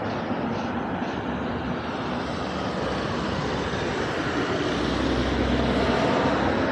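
Steady outdoor background rumble, like distant vehicle noise, growing slightly louder in the second half.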